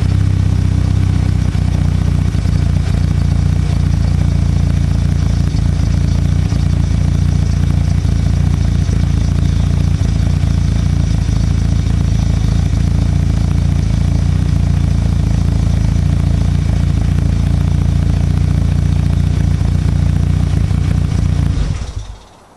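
Mitsubishi Lancer Evolution VIII MR's turbocharged 4G63 four-cylinder, built with forged internals and fitted with a C-Tech exhaust manifold and Milltek exhaust, idling steadily through the exhaust. Near the end the engine is switched off and the sound dies away.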